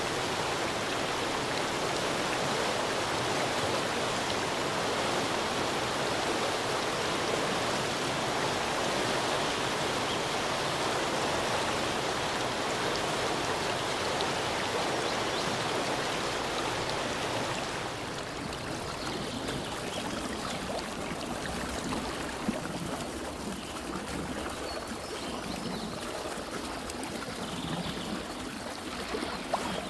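A stream's flowing water, a steady even rush that drops to a softer, thinner rush about two-thirds of the way through, with a couple of faint clicks near the end.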